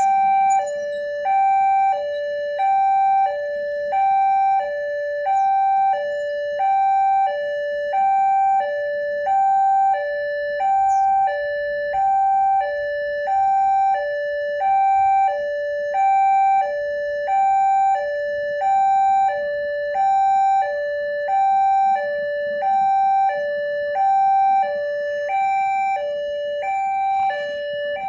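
Indonesian railway level-crossing warning alarm sounding, alternating steadily between two electronic tones, the higher one louder: the signal that a train is approaching and the barriers are down.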